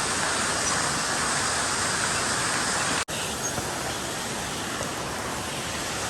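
Steady rush of a waterfall and river, a dense even roar of water. About three seconds in it cuts out for an instant, then carries on slightly quieter.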